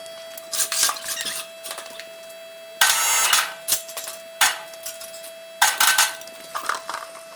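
Irregular clinks, scrapes and clatters of metal parts and tools being handled in a garage, the loudest about three seconds in, over a faint steady whine.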